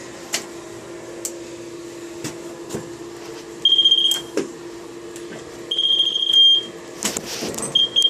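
Handheld moisture meter beeping three times, each a high beep of under a second, about two seconds apart, as it signals a wet reading in the flooring. A steady low hum and a few light clicks run underneath.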